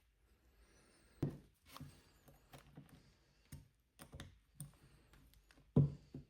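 Light, scattered clicks and knocks of small metal parts being handled and fitted as an espresso machine's solenoid valve is reassembled. There are two louder knocks, one about a second in and one near the end.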